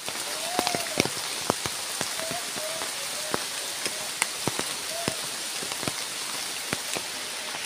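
Steady rain falling on foliage, with individual heavy drops landing as sharp taps several times a second.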